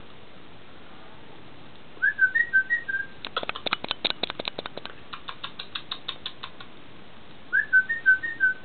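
A songbird singing a short whistled phrase of a few quick notes, twice, with a run of rapid dry clicks between the phrases that slows down and stops.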